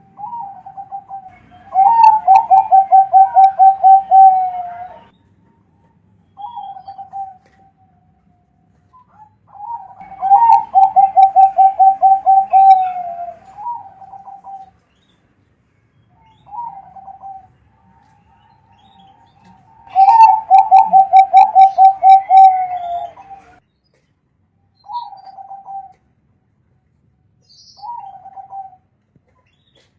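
Zebra dove (perkutut) singing: three songs, each opening with a short note and then a rapid run of coos at much the same pitch that dips at the end. Short single coos fall between the songs.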